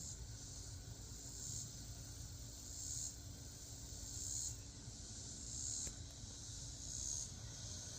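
Chorus of night-singing insects: a steady high trill that swells and fades about every second and a half.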